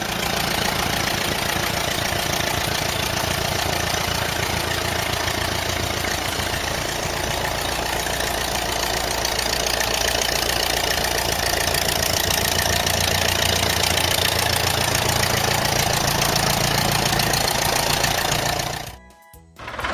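Cartoon sound effect of a vehicle engine running steadily, a low rumble with a dense hiss over it, cutting off about a second before the end.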